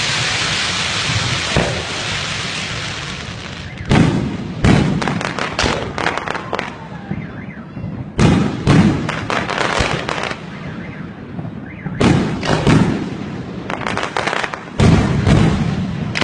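Fireworks going off: a hissing rush at the start, then volleys of rapid bangs and crackling that come in clusters every two to four seconds.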